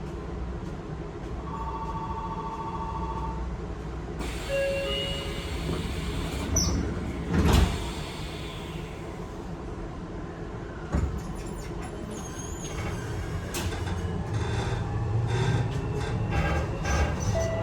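Inside a Y000 series electric commuter train standing at a station: a short two-tone chime, then the sliding doors shut with a loud thud about seven and a half seconds in. A smaller knock follows, then a run of clicks under the train's steady rumble.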